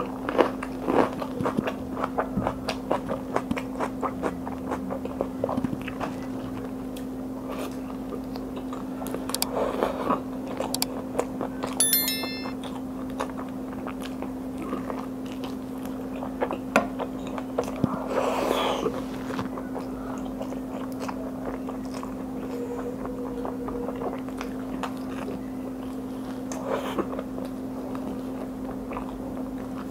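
Close-miked chewing and biting: many wet, irregular mouth clicks and smacks while she eats a boiled egg and then bites meat off a bone. A steady low hum runs underneath.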